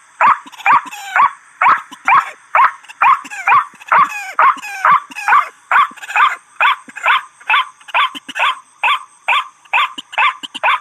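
White-breasted waterhen (ruak-ruak) calling: a loud, harsh note repeated over and over, about twice a second, each note dropping in pitch.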